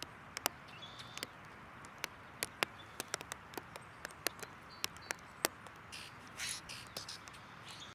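Backyard birds feeding: irregular sharp taps and clicks, about two or three a second, with a few faint short chirps and a brief rustle about six seconds in.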